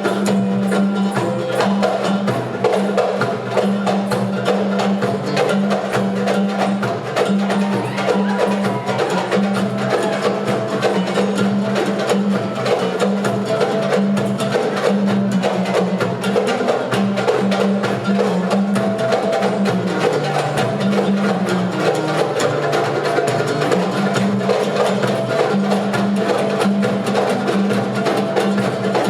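Ensemble of hand drums, darbukas among them, playing a fast, dense rhythm together over a steady low tone.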